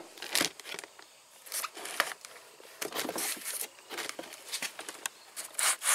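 Packaging being handled and opened by hand: irregular crinkling, rustling and short clicks from the box and wrapping around a new fuel pump.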